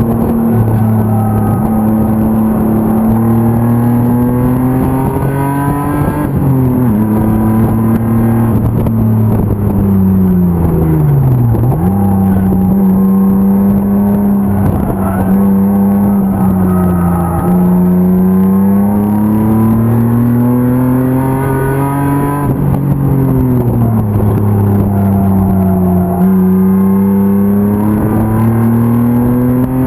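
BMW 325 race car's M50 inline-six engine being driven hard on track. Its pitch climbs under acceleration and drops quickly at gear changes, about six and twenty-two seconds in. Just before twelve seconds it falls away to a low note under braking, then jumps back up.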